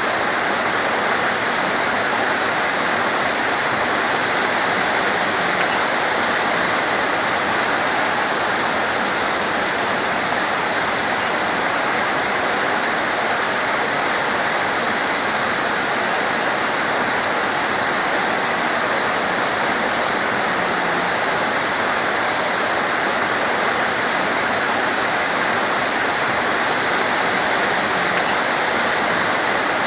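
Torrential rain falling steadily, a dense even hiss of water with no let-up. One short sharp click about seventeen seconds in.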